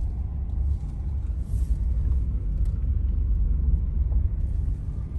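Steady low rumble of engine and road noise inside a moving vehicle cruising along a paved road.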